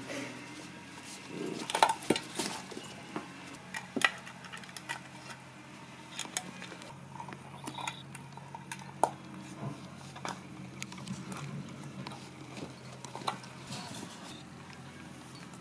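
Empty sardine tin clinking and knocking irregularly as a dachshund puppy noses and pushes it about, a few sharper metal knocks among lighter taps.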